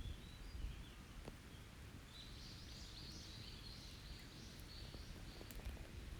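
Wild birds singing in a forest: a few short chirps, then a long warbling song phrase from about two seconds in. A few faint crackles from a campfire, over a low background rumble.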